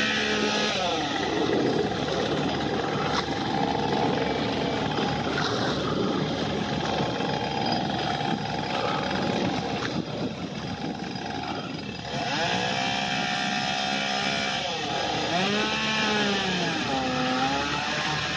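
A small engine running over a steady rushing noise. In the second half its pitch rises and falls several times as it revs up and down.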